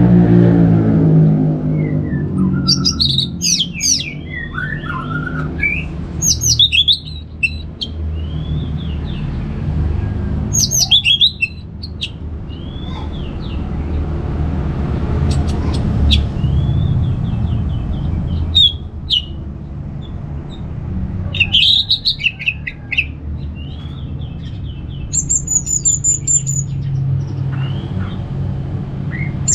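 Orange-headed thrush singing, with a phrase of quick whistled and chattering notes every few seconds, over a steady low hum.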